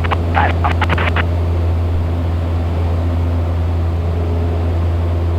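Cessna 172's piston engine and propeller droning steadily in flight, a constant low hum heard inside the cockpit.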